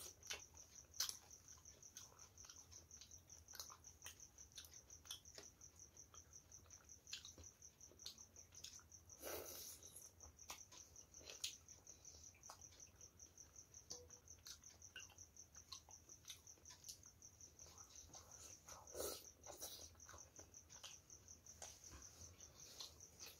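Close-miked eating sounds: faint wet chewing and lip smacks, with scattered short clicks, as mouthfuls of rice and fish curry are eaten by hand.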